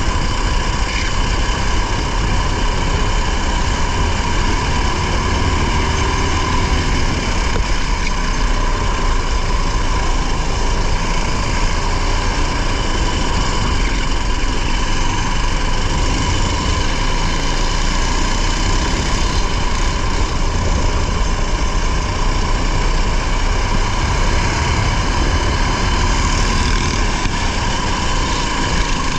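Racing vehicle's engine heard loud and close from an onboard camera, running hard and fairly steadily throughout, with a constant rush of wind and road noise underneath.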